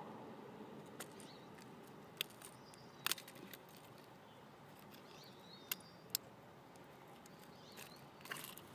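Faint, scattered clicks and clinks of metal pliers working a crankbait's treble hook out of a smallmouth bass's mouth.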